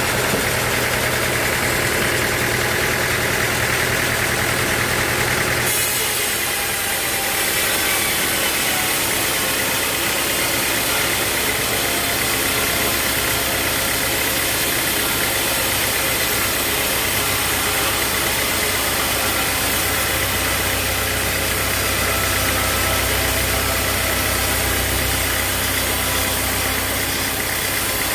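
Sawmill engine running steadily at a constant speed, with an abrupt change in its tone about six seconds in.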